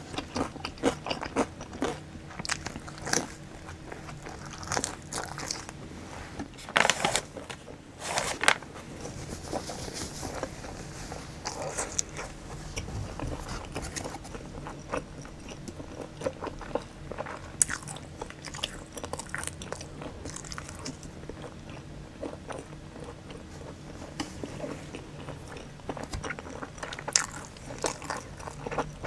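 A person biting and chewing sauced boneless fried chicken and pizza, with irregular crunches and mouth clicks, loudest about seven and eight and a half seconds in.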